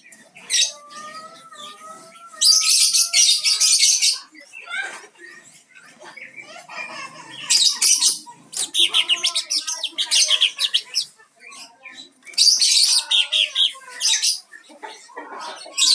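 Cucak ijo (green leafbird) singing: several bursts of fast, high chattering notes, each a second or two long, with softer, lower whistled notes between them.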